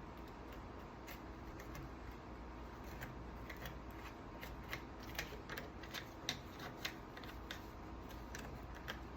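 Scattered light clicks and small scrapes of a chainsaw being handled and cleaned by hand. They grow more frequent about three seconds in, over a faint steady hum.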